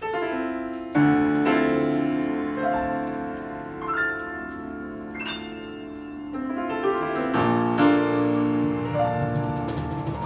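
Piano playing, starting suddenly with loud chords, then a passage of chords and rising notes, with a quick string of sharp ticks near the end.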